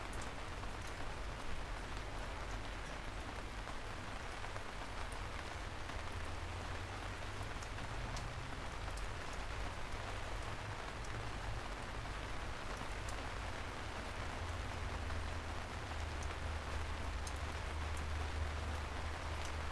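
Steady rain falling, a continuous hiss with scattered individual drops ticking, over a low rumble that swells a little near the end.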